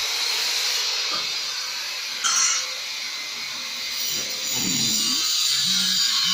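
Electric garage door opener motor running steadily, driving a newly installed single aluminium garage door along its track. There is a short, higher squeal about two seconds in.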